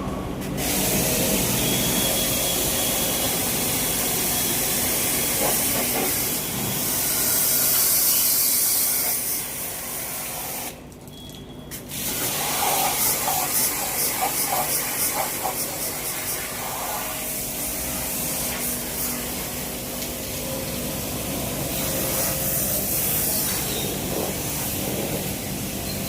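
Jet pump's high-pressure water spray hissing against an air conditioner's outdoor unit, with the pump motor running steadily underneath. The spray stops for about a second roughly eleven seconds in, then goes on.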